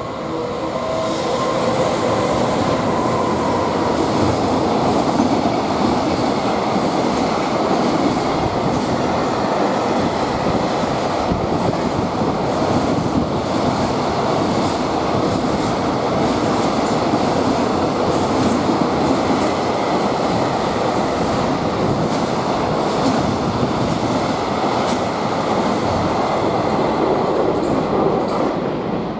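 Long freight train passing close by at speed: a steady heavy rumble of the wagons with faint regular clicks of the wheels over rail joints. A few brief pitched tones sound at the very start.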